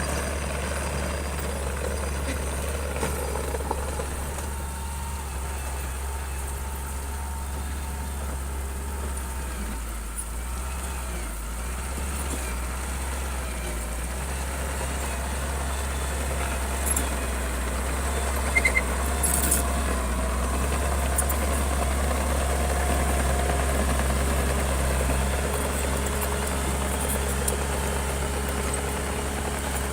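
Heavy diesel construction machine, a bulldozer, running steadily at a constant low hum, with a few short sharp metallic clanks a little past the middle.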